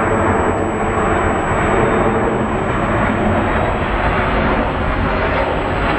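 Jet airliner on landing approach: a loud, steady rush of engine noise with a deep rumble underneath.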